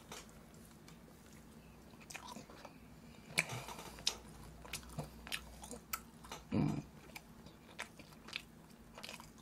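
Close-miked chewing of a mouthful of boneless braised chicken: soft, irregular wet clicks and smacks of the mouth. A brief low voice sound from the eater about two-thirds of the way through is the loudest moment.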